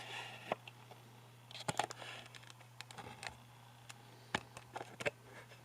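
Faint, scattered clicks and taps over a steady low hum.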